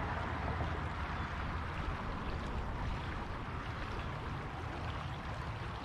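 River water running steadily past a kayak.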